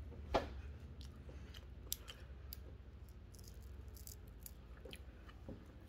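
Faint chewing of a crispy wafer-shelled hazelnut chocolate, with a short sharp click about a third of a second in and scattered soft ticks over a low steady hum.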